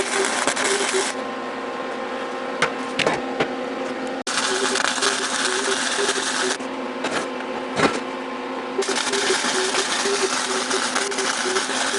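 Flux-core wire welding: a crackling hiss over a steady hum, switching off and on again sharply as the arc is stopped and restarted.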